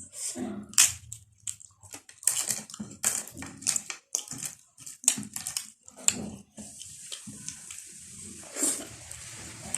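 Close-miked eating sounds: wet chewing, lip smacks and mouth clicks from someone eating pork, rice and dal. A few seconds in, the smacks thin out and a steady hiss takes over.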